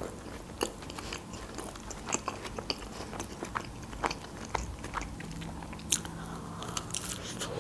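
Close-miked chewing of a burger: wet mouth sounds with many small clicks and crackles, and a fresh bite taken about six seconds in.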